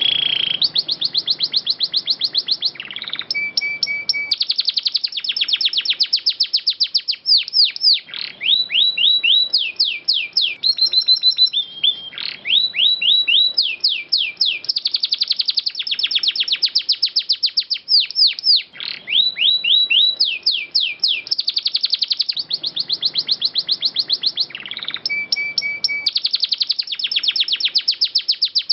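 Domestic canary singing a long, nearly unbroken song of rapid trilled rolls: fast runs of repeated chirping notes and quick sweeps, with a few short held whistled notes between the runs.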